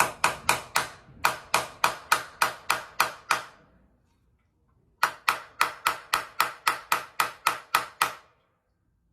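A hammer striking a steel screw extractor, quick ringing metal-on-metal taps about three to four a second, in two runs with a short pause between. The extractor is being driven into a hole drilled in a stuck bolt so that it bites before being turned out.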